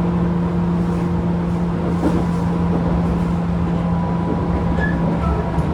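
Tobu 10000-series electric train running at steady speed, heard inside a field-chopper-controlled motor car: a constant low hum with a few fixed tones over wheel and rail rumble, and a few faint clicks.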